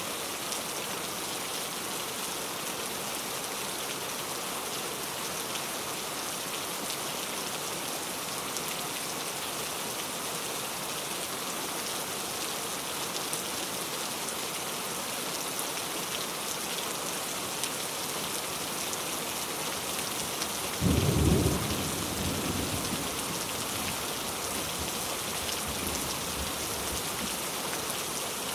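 Heavy rain falling in a steady, dense hiss. About two-thirds of the way through, a sudden deep clap of thunder is the loudest sound, and it rumbles off over the next few seconds.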